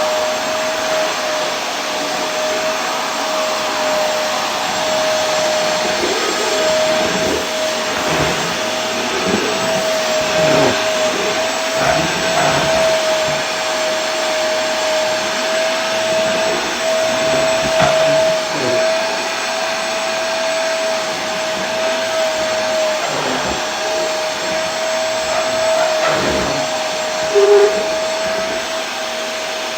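Vacuum cleaner running steadily: an even rushing of air with a constant motor whine over it, swelling a little now and then, and a short louder blip near the end.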